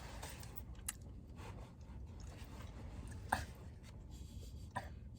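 Quiet chewing inside a car, with three faint clicks and a low steady rumble underneath.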